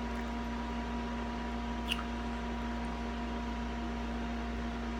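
Steady room background: an even hiss with a constant electrical hum, like a fan or appliance running, and one faint click about two seconds in.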